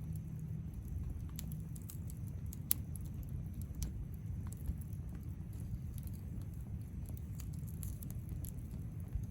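Wood campfire crackling, with scattered sharp pops of burning wood over a steady low rumble of the flames; the loudest pop comes a little under three seconds in.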